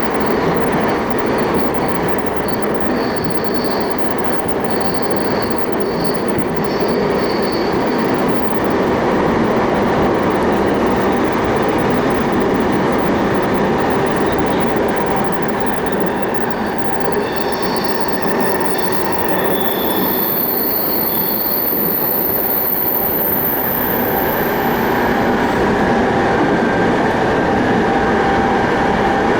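Electric commuter train on the JR Keiyo Line running at speed, heard from inside the carriage: a steady rumble of wheels on rail, with faint high-pitched wheel squeal coming and going and a thin high whine about two-thirds of the way through.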